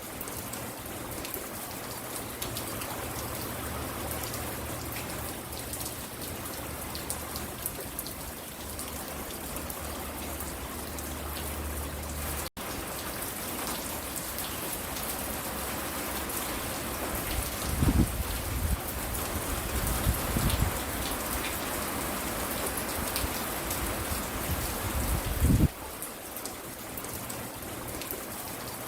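Steady rain falling with dense pattering drops. The sound drops out for an instant about twelve seconds in, and a few short low thumps come in the second half, the last near the end.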